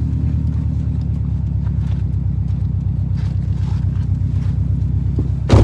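2007 Subaru STI's turbocharged 2.5-litre flat-four (EJ25) running steadily at low revs with a pulsing rumble. One sharp thump near the end.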